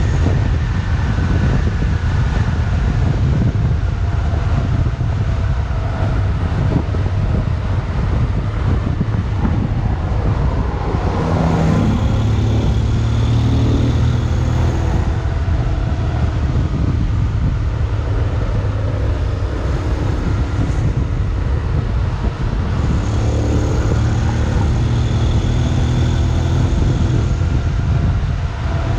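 Wind noise and road rumble heard from a Honda X-ADV 750 rider at speed, with the parallel-twin engine running underneath. The engine pitch rises about eleven seconds in.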